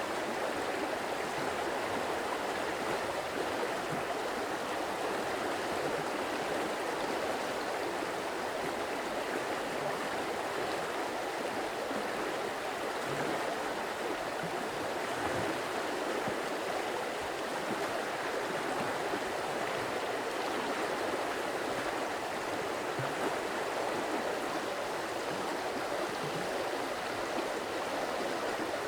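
Running water of a stream flowing steadily, an even unbroken rush.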